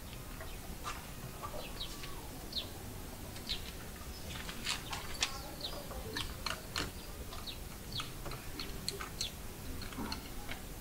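Scattered short bird calls and light clicks over a quiet outdoor background, with no one speaking.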